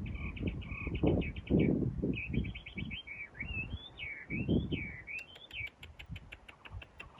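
A bird singing: a run of quick chirps, then rising and falling whistled notes, then a fast series of short sharp ticks near the end. Under it are repeated dull low thumps and knocks, louder than the song.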